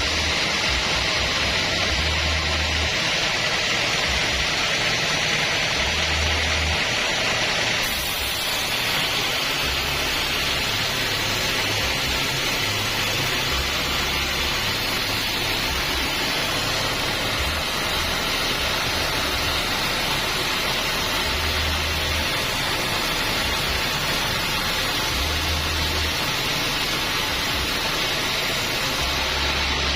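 Sawmill band saw cutting acacia wood: a steady, loud, hissing noise. The tone of the hiss shifts slightly about 8 seconds in.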